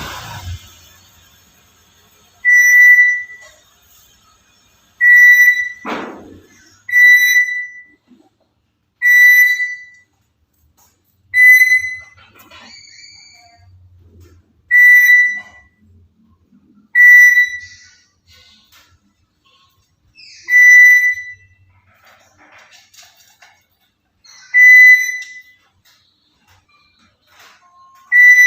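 A clear, steady whistled note repeated about ten times, each held under a second, with gaps of two to four seconds: tutor whistling for a young black-capped lory to learn and imitate.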